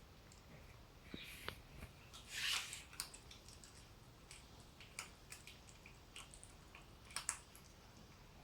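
Cat eating food: faint, irregular wet chewing clicks and smacks, with a short louder rustle about two and a half seconds in.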